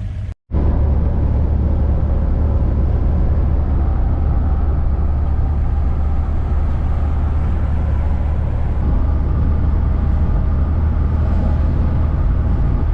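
Van driving at a steady speed: a constant low engine and road drone, starting after a brief cut about half a second in.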